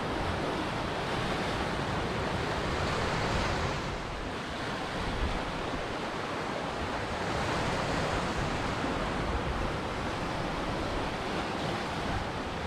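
Ocean surf breaking and washing on a shore, a steady rush that swells and eases twice.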